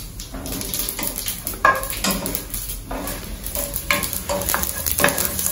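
Mustard seeds, urad dal and chana dal frying in hot oil for a tempering, sizzling steadily while a wooden spatula stirs them around the pan, with a few short scrapes and knocks of the spatula.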